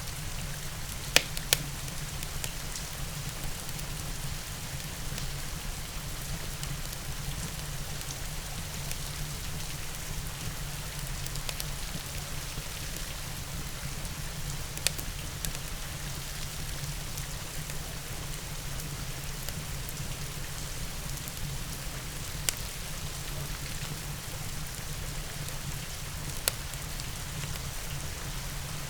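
Steady rain falling, with a few sharp pops from a crackling wood fire: two close together about a second in, then single pops spread through the rest.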